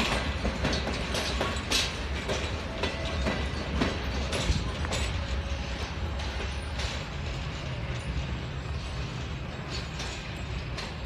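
Pakistan Railways passenger coaches rolling away along the track: a steady rumble of wheels on rail with a few sharp clacks as wheels cross rail joints, fading slowly as the train recedes.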